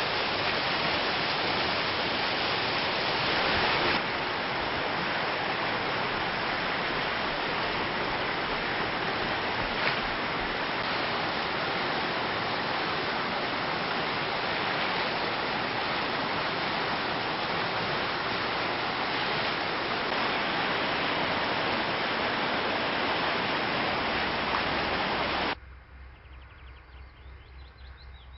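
Rushing water, a steady loud hiss of flowing water. About 25 seconds in it cuts off abruptly to a much quieter outdoor background with faint chirping.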